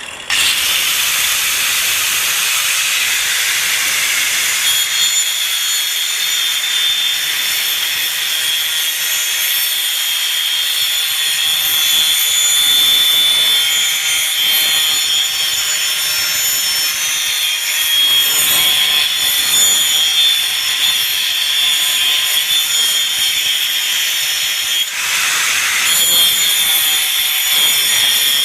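Doliz BA370 720-watt angle grinder running at full speed with its disc working against material: a steady high whine with a rasping edge.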